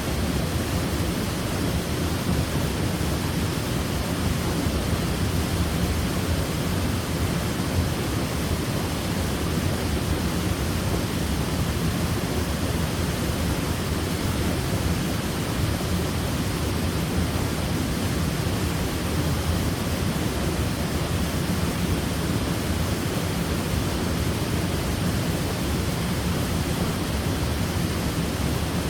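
Waterfall: water pouring and splashing in a steady, unbroken rush, strongest in the low end.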